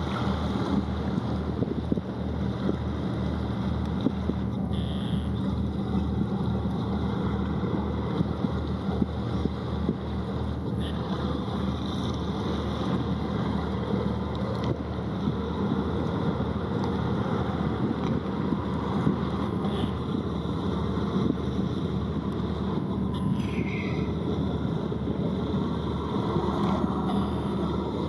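A boat's engine running steadily as a low, regular throb with a hum, mixed with wind noise on the microphone.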